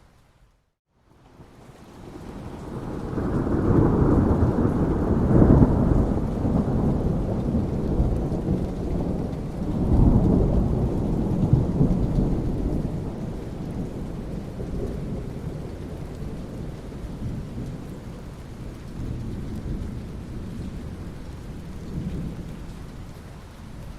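Rolling thunder over steady rain. After a brief dropout at the start, a long deep rumble swells over a couple of seconds, peaks twice (around five and ten seconds in), then rumbles away slowly while the rain keeps falling.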